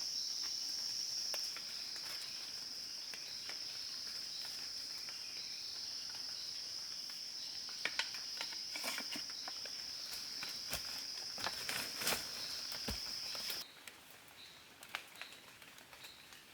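Insects droning in one steady high-pitched note, with scattered sharp clicks and snaps from handling, most of them in the second half. The drone cuts off abruptly near the end, leaving a few faint ticks.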